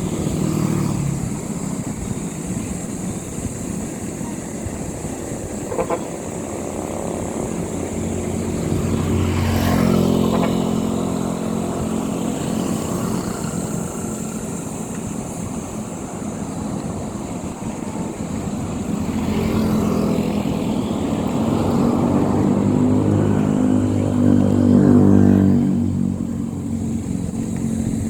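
Motor vehicle engine running, growing louder about a third of the way in and again through the second half before fading, over a steady hiss.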